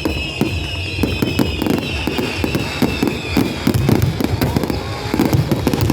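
Fireworks going off in rapid succession: a dense run of sharp crackles and pops over low booms. A high whistling tone slowly falls in pitch throughout.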